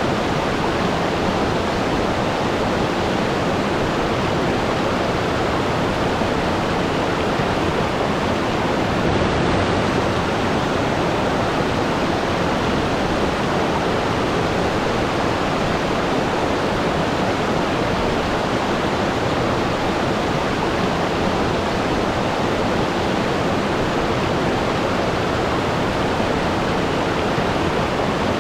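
Waterfall: water falling steadily, a dense, even rush.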